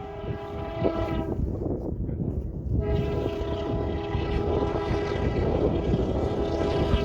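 Train horn sounding over the low rumble of the train: one blast that ends about a second and a half in, then a second, long blast from about three seconds in.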